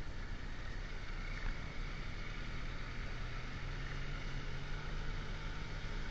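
Motorcycle engine running steadily on the move, mixed with wind and road noise; the engine note rises slightly in pitch about halfway through.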